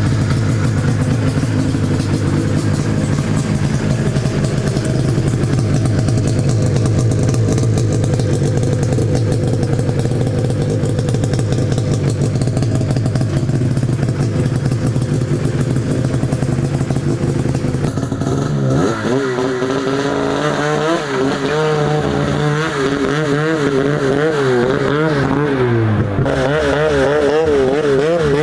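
Arctic Cat snowmobile's two-stroke engine running steadily at a low, even speed, then from about 18 seconds in rising and falling in pitch as the throttle is worked on and off.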